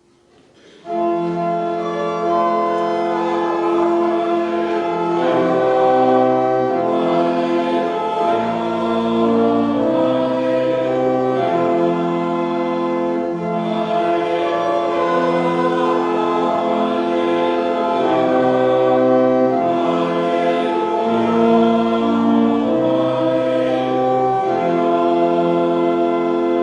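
Church music after the scripture reading: singing with organ accompaniment in slow, held chords, starting about a second in.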